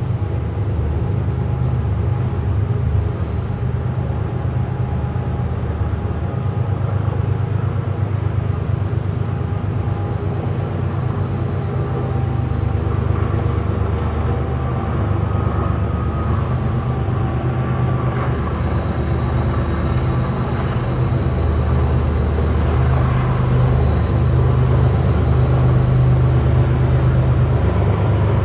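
CSX coal train rolling past close by: a loud, steady low rumble, with faint steady high tones above it.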